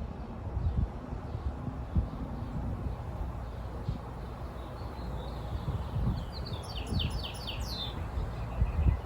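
A songbird singing, with faint chirps and then one quick trilled phrase of about eight sharp, falling notes about two-thirds of the way in. Underneath runs a low rumble with irregular thumps.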